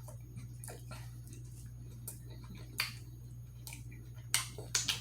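Close-up eating mouth sounds: a few sharp wet clicks and lip smacks, most of them in the second half, over a steady low electrical hum.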